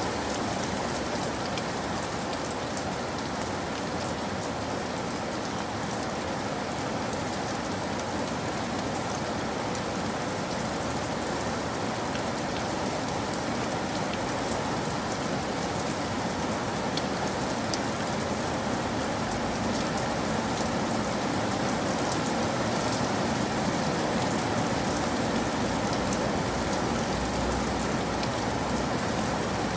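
Steady heavy rain falling on surfaces, a continuous hiss with scattered drop ticks.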